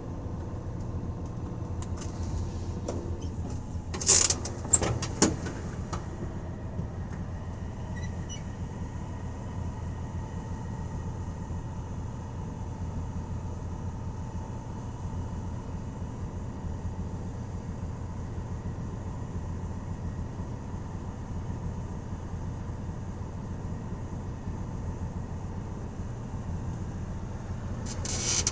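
1984 Dodge van's engine and drivetrain running steadily while driving, a low even drone with no clear revving. A few short sharp knocks or rattles come about four to five seconds in.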